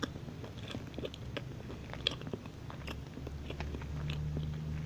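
Someone chewing a soft banana walnut muffin, with many small, irregular mouth clicks.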